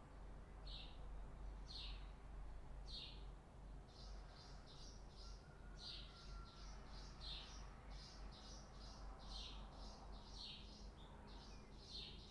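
Faint bird chirping: short high chirps about a second apart, then from about four seconds in a quicker run of several chirps a second, over a steady low rumble.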